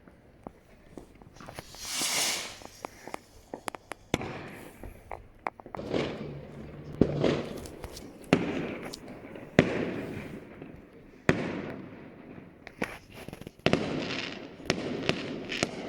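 Fireworks going off: a rushing hiss about two seconds in, then a run of sharp bangs and crackling bursts, one after another.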